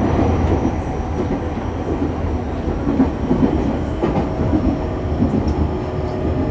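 Interior running sound of an E501 series EMU motor car (MoHa E501-3): a steady rumble of wheels on rail, with faint steady whining tones from the traction equipment above it.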